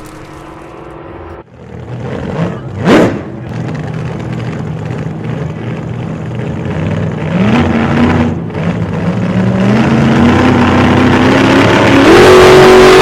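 Car engine with a loud aftermarket exhaust revving, its pitch climbing in steps and getting louder over the second half, with a brief loud sweep about three seconds in.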